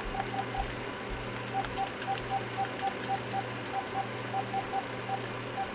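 Clarity E814CC cordless handset beeping at each key press as the buttons are tested one after another: short single-tone beeps about four a second in runs with brief pauses, over a low hum. Each beep shows the repaired keypad button is registering.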